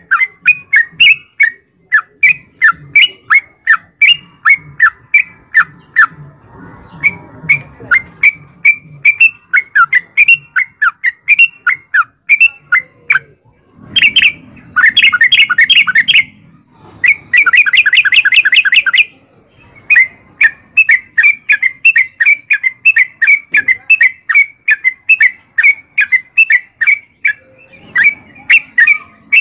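Yellow-vented bulbul (trucukan) calling in a long run of short, loud chirps, about two a second. Midway it breaks into two dense bursts of rapid chattering, each lasting about two seconds.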